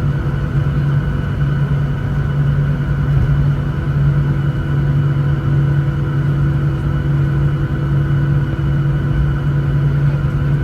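Boeing 737-900ER's CFM56-7B jet engines heard from inside the cabin during taxi: a steady low hum with several steady tones above it.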